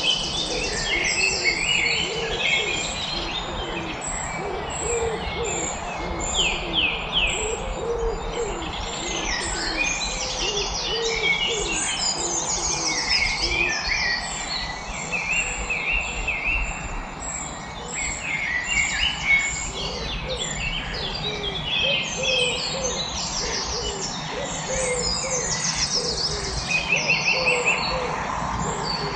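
A dense chorus of many songbirds chirping and trilling over one another, with low, short hooting notes repeated underneath.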